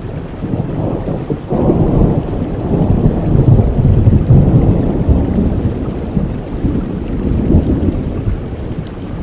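Steady rainfall with a long, low thunder rumble that swells about a second and a half in, peaks midway and slowly fades.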